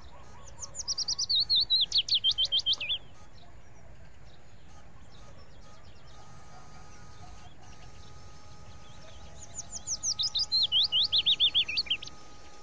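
A bird singing two songs, about nine seconds apart. Each song is a fast run of sharp, high notes that step down in pitch and lasts about two and a half seconds.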